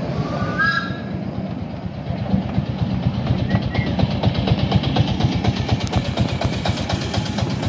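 Narrow-gauge passenger train running slowly, a rapid, even rhythmic clatter that grows stronger about three seconds in as it passes close to another locomotive.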